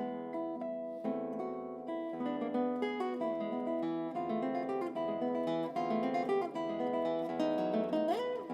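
Acoustic guitar music with plucked and strummed notes, and a sliding note rising in pitch near the end.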